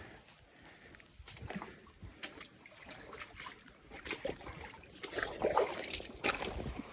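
Footsteps splashing and sloshing through shallow water, in irregular steps that grow louder in the second half.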